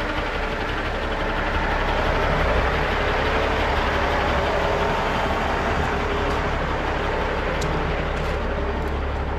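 Heavy diesel truck running, a steady low engine drone under a wide even hiss of road or air noise.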